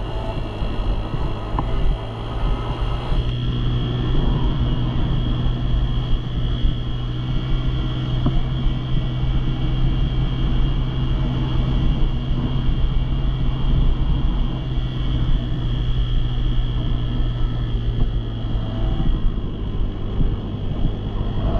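An engine running steadily at a near-constant speed, with a low rumble underneath.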